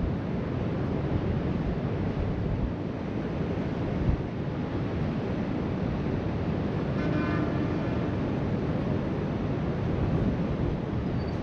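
Steady wind noise on the microphone over the wash of waves breaking on the beach below. A faint short pitched sound is heard about seven seconds in.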